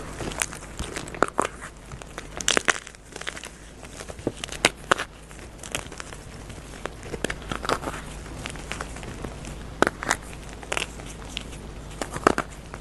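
Crunchy dyed gym chalk being crushed and crumbled: irregular sharp crunches and crackles, a few louder ones standing out among softer crumbling.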